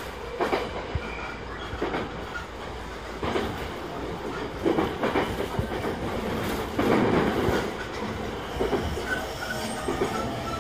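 JR East E217-series electric train (motor car MoHa E217-31) running on the rails, heard from inside the car: a steady rumble with irregular clatter and rattles of the wheels over rail joints, and a few faint brief squeals near the end.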